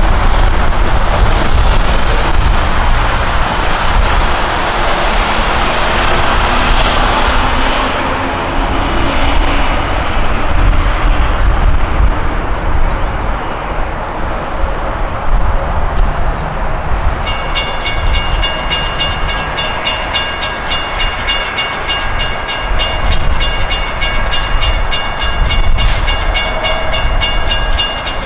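Long Island Rail Road M-3 electric multiple-unit train of ten cars passing close by, a loud steady rumble of wheels on rail and running gear. About two-thirds of the way in, a fast, evenly repeating multi-pitched ring joins it: the grade-crossing bell.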